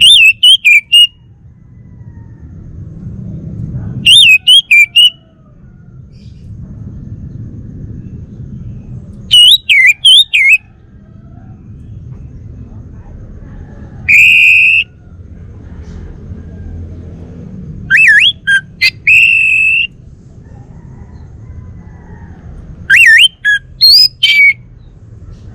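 Male orange-headed thrush singing: short, loud phrases of rapid whistled notes that swoop up and down, repeated every four to five seconds over a faint low rumble.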